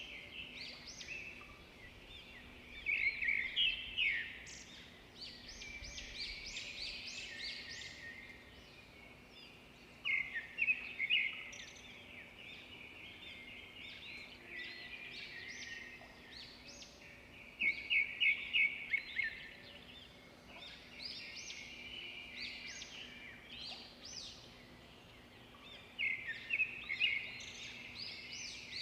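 Birds chirping in repeated bursts of quick high chirps, one phrase every several seconds, over a faint steady hum.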